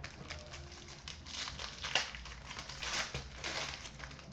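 Packaging crinkling and rustling as hockey card boxes are opened and the cards handled, with a sharper crackle about two seconds in.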